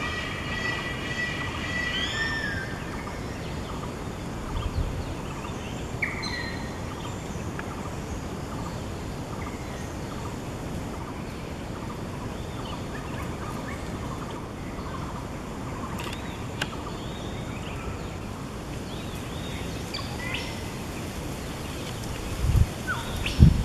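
Birds calling over a steady outdoor background hiss: a drawn-out pitched call in the first couple of seconds, then scattered short chirps and whistles. A few low bumps of wind on the microphone come near the end.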